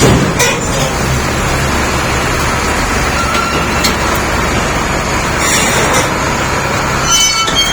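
Shantui SD32 crawler bulldozer's diesel engine running steadily under load, with a few sharp metallic clanks and a brief high squeal near the end.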